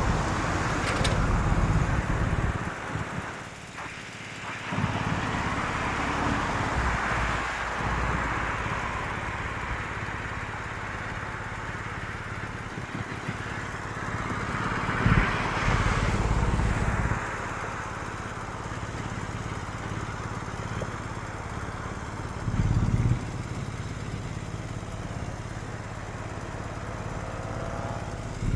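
Street traffic: vehicles driving past one after another over a steady low engine rumble, each pass swelling and fading.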